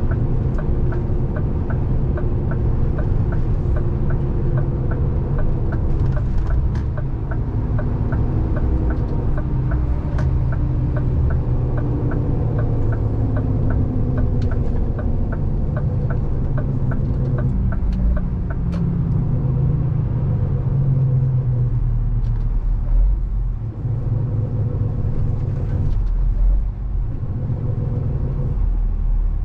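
Scania 450 truck's diesel engine running under way, heard from inside the cab, its pitch shifting around the middle as the truck changes speed. An even ticking about twice a second runs over it until about two-thirds of the way through, then stops.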